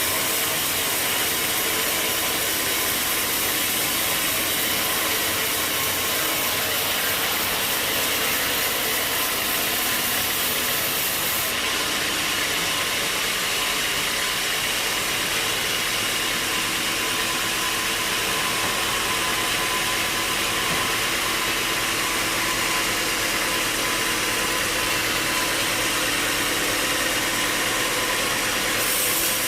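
Sawmill machinery running steadily, a constant mechanical noise with a hiss.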